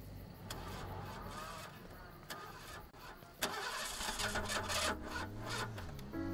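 Toyota AE86's engine turned over with the key, catching with a sudden loud burst about three and a half seconds in and then running with a rising and falling rev.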